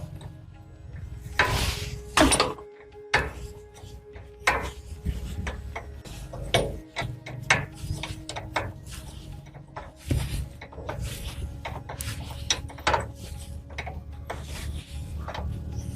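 Irregular knocks, clicks and clatter of hand work on metal parts and tools, a dozen or so sharp strikes spread unevenly, over a steady low hum.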